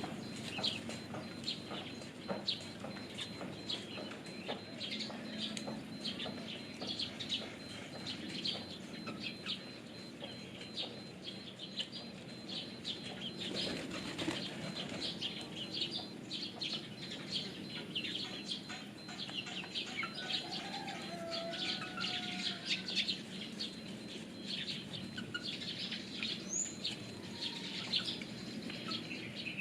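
Pigeons flapping and fluttering their wings, a quick run of short wingbeats that keeps going over and over, with a faint call a little past the middle and a couple of tiny high chirps near the end.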